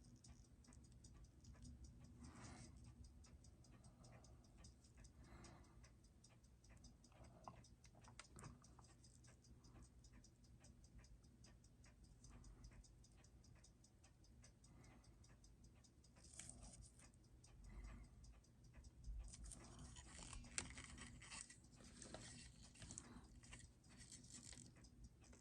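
Faint, rapid, even ticking of a Seiko 6R15 automatic watch movement running at 21,600 beats an hour, about six ticks a second, while its beat error is being adjusted. A few brief scraping handling noises come in over it in the later part.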